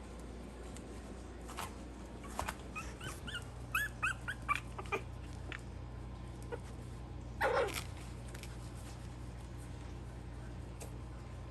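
Young Maltese puppies whimpering and yipping in short, high squeaks, clustered between about three and five seconds in. There is one louder, rougher cry a little past seven seconds, and faint clicks of small paws or nails.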